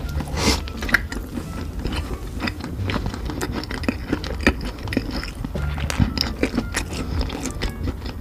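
A person biting and chewing food: a dense, irregular run of short crunching and wet clicking mouth sounds.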